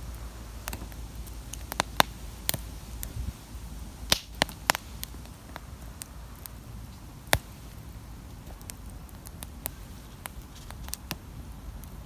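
Wood campfire crackling: irregular sharp pops and snaps, a few of them loud, over a low steady rumble.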